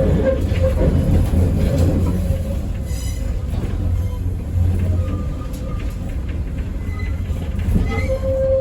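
Train running with a steady low rumble. A thin steady tone sounds over it at the start and again near the end.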